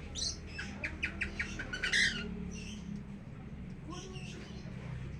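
Lovebirds calling: sharp squawky calls, with a quick run of short chirps about a second in.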